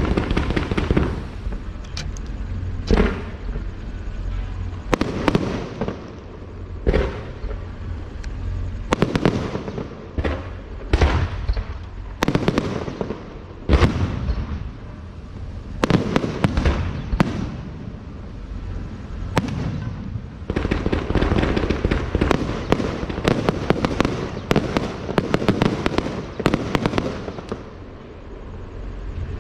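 Fireworks going off: a string of separate loud bangs and booms, then a dense, rapid run of bangs for several seconds near the end.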